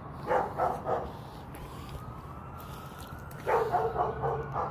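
Short, repeated bark-like animal calls in two bursts: three quick ones about half a second in, then a run of about five near the end, over a low steady hum.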